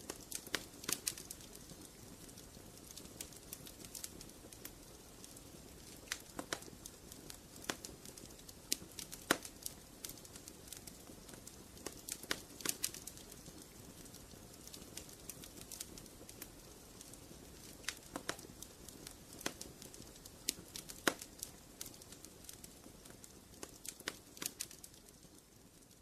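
Fireplace fire crackling, with sharp irregular pops over a steady low hiss of the flames, growing fainter near the end.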